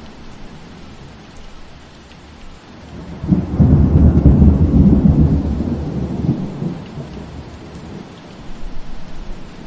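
Steady rain falling, with a roll of thunder that rises about three seconds in, rumbles deep and loud for a couple of seconds, then fades away.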